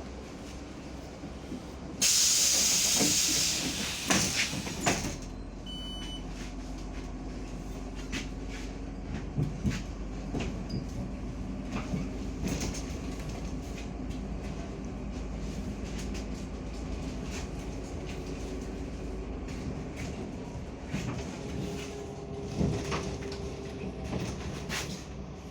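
Inside a MAZ 105 articulated city bus: about two seconds in, a loud hiss of compressed air lasting about three seconds, from the bus's pneumatic system, with a few knocks, then a short beep. After that the bus's steady running drone with light rattles, and a faint tone near the end.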